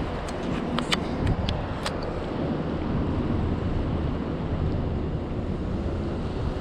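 City street ambience: steady traffic noise, with several sharp clicks in the first two seconds.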